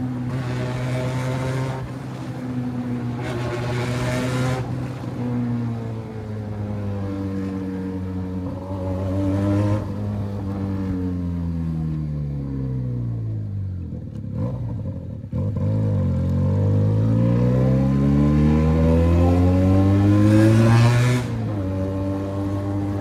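Benelli 302 parallel-twin engine running through an open exhaust with no silencer. It runs fairly steadily at first, its speed falls to a low a little past the middle, then climbs steadily to its loudest near the end before dropping back.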